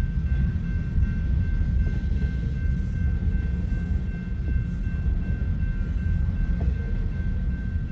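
Freight cars of a passing train rolling by on the rails, a steady low rumble with a faint, steady high-pitched ring above it.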